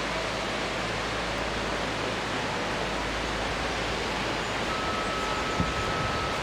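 Steady rush of Eugenia Falls, a ribbon plunge waterfall, heard as an even noise with a single faint knock near the end.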